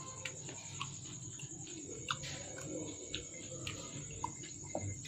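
Close-miked chewing of phuchka, crisp fried puri shells crunching with irregular clicks and crackles, over a steady faint high whine.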